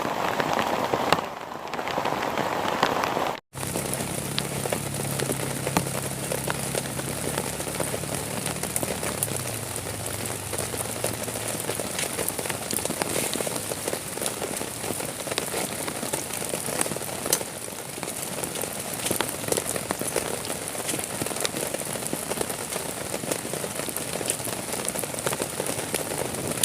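Steady heavy rain with many sharp individual drop hits. There is a momentary dropout a few seconds in, and a faint low hum for a while after it.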